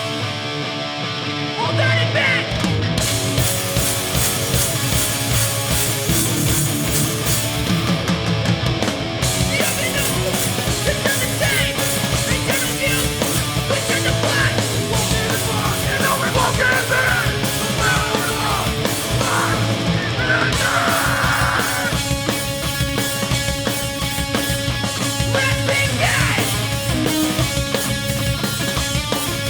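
Live New York hardcore punk band playing a fast, loud song: distorted electric guitars, bass and drums. The full band, drums and low end included, comes in about two seconds in.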